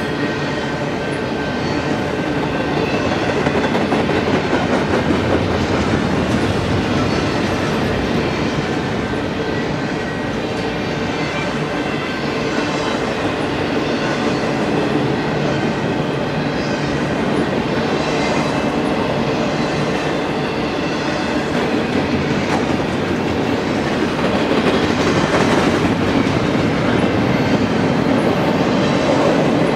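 Double-stack intermodal well cars rolling past at speed: a steady rumble of steel wheels on rail with a clickety-clack over the rail joints, swelling a little about three quarters of the way through.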